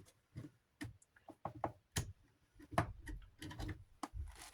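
An irregular run of light clicks and knocks: desk-fan parts being handled and fitted together by hand during reassembly.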